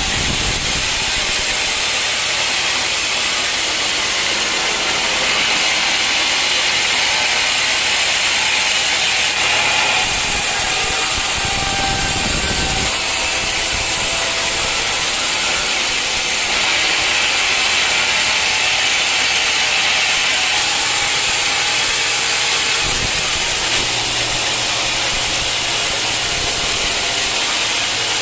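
Sawmill machinery running steadily: engine and saw noise, with two stretches of brighter hiss, about five seconds in and again from about seventeen seconds, typical of the blade cutting through wood.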